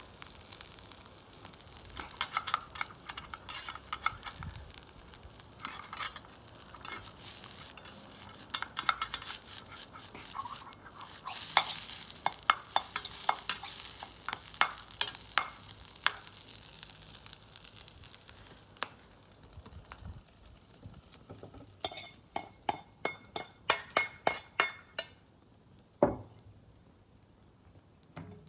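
Stir-frying in a Chinese wok: food sizzling while a metal utensil scrapes and clanks against the wok. Near the end comes a quick run of taps, about four a second, then a single knock.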